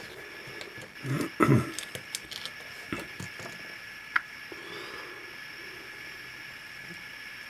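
Faint workbench handling noises from hands working on a small model locomotive: scattered small clicks and taps, with one sharp tick about four seconds in.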